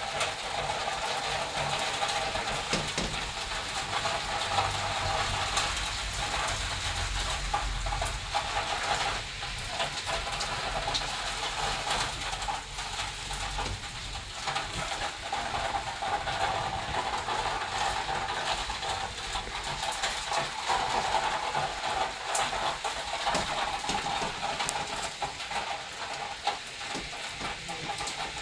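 Heavy thunderstorm rain pouring steadily: a dense, even hiss with scattered small pattering clicks. A low rumble sits underneath for several seconds in the first half.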